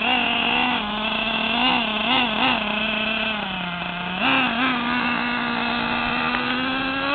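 RC monster truck's small motor running with a buzzing note: a few quick throttle blips about two seconds in, a brief drop and then a sharp jump about four seconds in, and a slow climb in pitch near the end.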